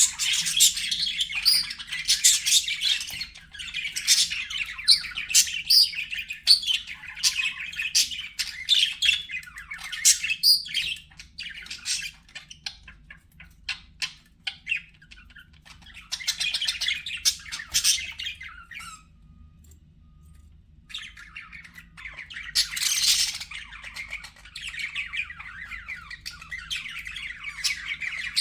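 Pet budgerigars chattering and chirping in a fast, continuous stream. The chatter thins out about halfway, pauses for a moment about two-thirds of the way through, then picks up again with a loud burst.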